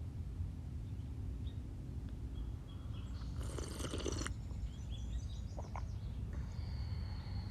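Birds chirping and whistling outdoors over a steady low rumble of wind or ambient noise, with one louder, harsher call lasting about a second a little after three seconds in and a held high whistle near the end.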